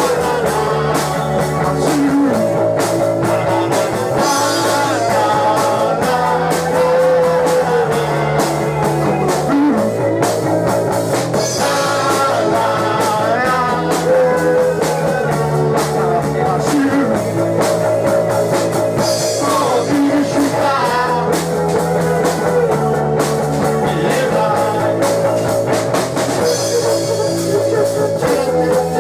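Rock band playing live: electric guitar over a bass line and drum kit, in a steady repeating groove.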